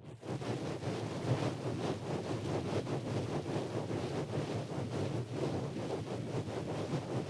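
Ear-cleaning tool rubbing and scraping right against the microphone, a dense, steady scratchy rustling made of many rapid small strokes.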